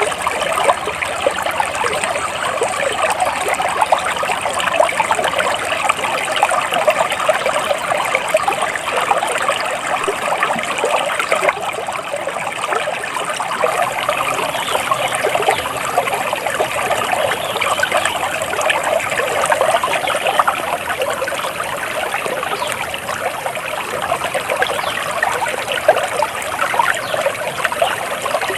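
Shallow flowing water trickling and babbling steadily, a dense, even splashing without pause.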